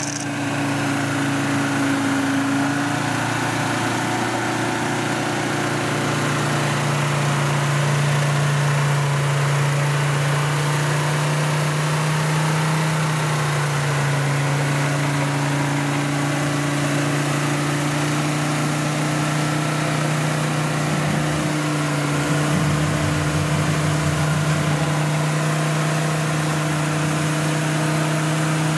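Suzuki Jimny trial truck's engine running at steady, held revs while it is winched up a muddy slope, the pitch rising a little about four seconds in.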